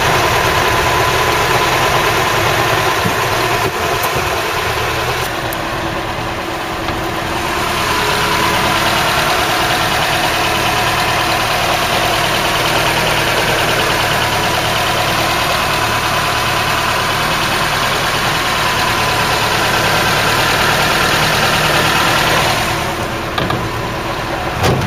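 Ford Cortina Mk3's overhead-cam four-cylinder engine running steadily at idle, a little louder through the middle stretch.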